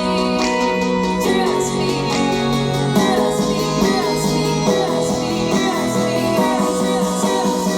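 A song with singing and guitar played loud through a car audio system's front speakers, Digital Designs VO-M8 midranges and VO-B3 tweeters.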